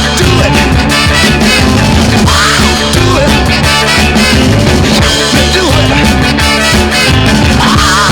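Up-tempo 1960s rhythm-and-blues record playing on vinyl: a full band with a steady driving beat and no sung words.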